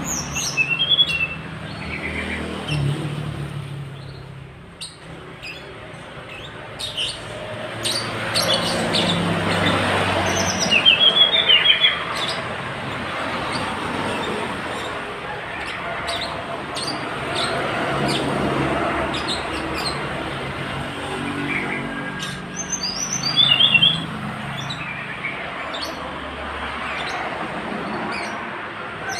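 Tledekan gunung songbird singing short bursts of quick, falling chirps, three or four phrases spread through the stretch, over a steady background rumble like distant traffic.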